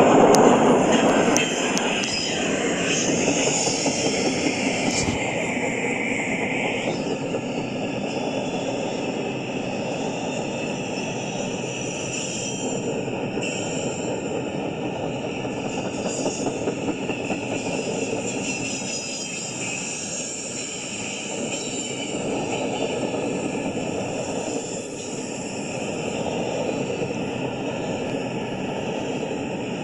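Freight train cars rolling past on the rails: a steady rumble of wheels on track. A high steady tone rides over it and stops about seven seconds in.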